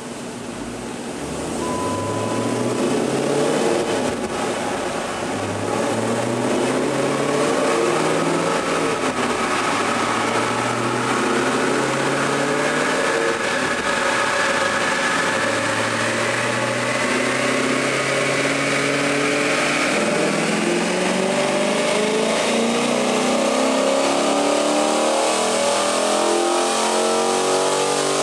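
2010 Dodge Challenger SRT8's 6.1-litre Hemi V8, fitted with a Mopar cold-air intake and Corsa cat-back exhaust, running hard under load on a chassis dynamometer at full throttle in fourth gear. It gets louder about a second or two in, and its pitch climbs slowly as the revs rise.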